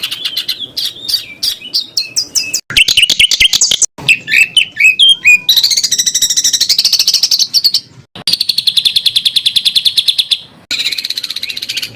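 Songbird masteran material: a spliced run of rapid-fire 'tembakan' calls, sharp repeated notes and chattering trills, jumping abruptly from one recording to the next every second or few. In the second half comes a fast, even trill of many pulses a second.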